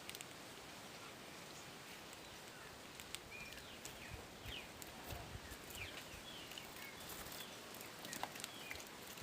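Faint outdoor ambience with small birds chirping in short, quick calls, most of them bunched in the middle, and a few light clicks.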